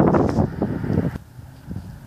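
Mercedes-Benz W108's engine and exhaust running in uneven pulses, loud for about a second and then dropping away sharply.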